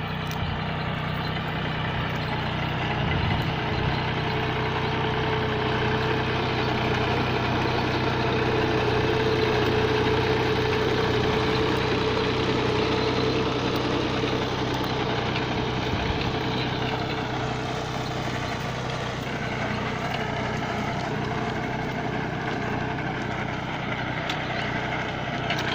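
Captain 283 mini tractor's diesel engine running steadily at idle.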